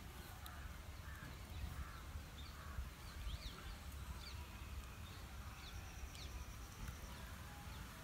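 Birds calling in the background, a few short, high chirps that slide in pitch, most of them in the middle, over a faint, low, steady rumble.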